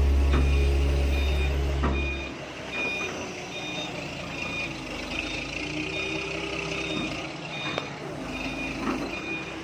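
A vehicle's reversing alarm beeping at an even pace, a high electronic beep repeating under a second apart, as the vehicle backs up while a machine is moved. Background music with heavy bass plays under it for the first couple of seconds, then stops.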